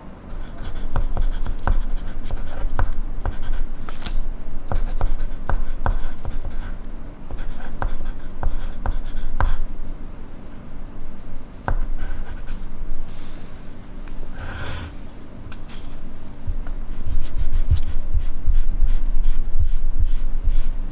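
Graphite pencil writing on paper: quick scratchy strokes and small taps of the tip, with a brief louder rustle about two-thirds of the way through.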